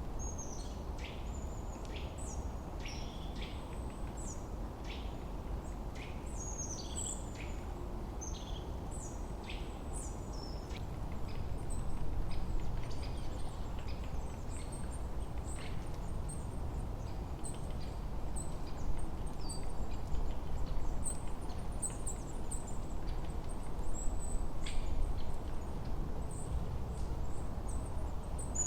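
Forest birdsong: many short, high chirps and twittering calls from several birds, busiest in the first ten seconds and again near the end, over a steady low rush of wind.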